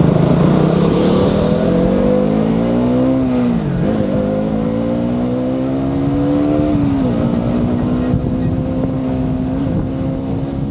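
KTM Duke 200's single-cylinder engine accelerating hard. The revs climb, drop at an upshift about three and a half seconds in, climb again, drop at a second shift about seven seconds in, then hold nearly steady.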